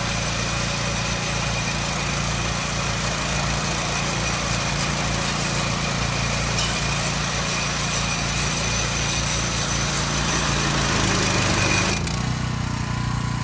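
A hay baler and its engine running steadily, with a high mechanical hiss and clatter over a low engine sound. About twelve seconds in the sound changes abruptly: the hiss drops away and a lower, steadier engine sound remains.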